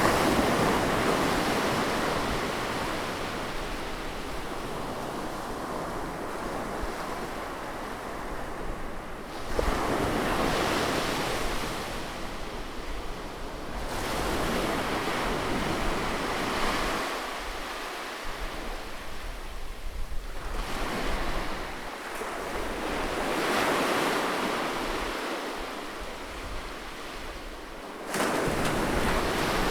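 Sea waves breaking, each wash of surf swelling and then fading away. A sharp new break comes about ten seconds in and another near the end.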